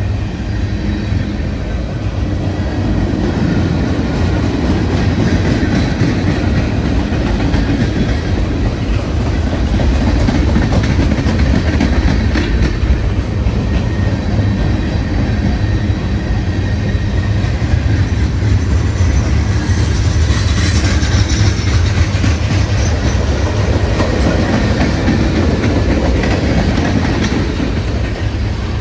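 A train rolling past, the railcars rumbling steadily and the wheels clacking over the rails.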